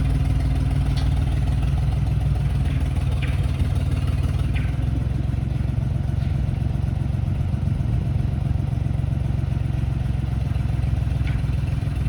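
An engine running steadily at an even speed, with a few faint light clicks over it.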